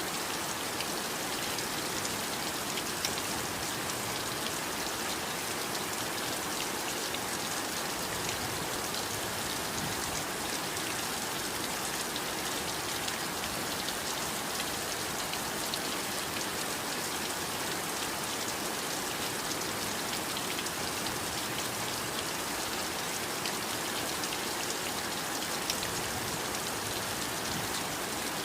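Heavy rain falling steadily, a dense even hiss with many small drop patters.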